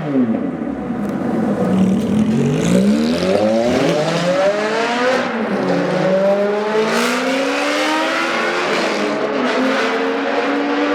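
Ferrari F430's V8 with cat-delete exhaust pipes accelerating hard. Its pitch climbs, drops at an upshift about halfway, climbs again, then levels off near the end.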